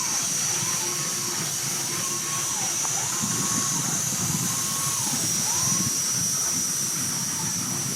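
1910 Burrell 8hp steam traction engine running, with a steady high steam hiss over a low rumble. A faint tone rises and falls about once a second throughout.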